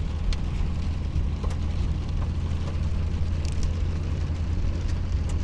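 Inside a pickup truck's cab while driving in heavy rain: a steady low rumble of engine and road noise under an even hiss of rain on the truck, with a few faint ticks.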